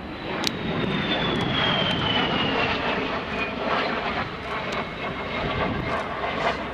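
MiG-17 jet fighter's turbojet engine passing by, its noise swelling about half a second in, with a high whine that falls steadily in pitch over the next few seconds as the jet goes past.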